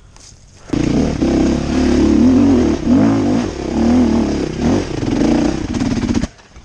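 Dirt bike engine revving up and down under load, starting a moment in and cutting off suddenly near the end.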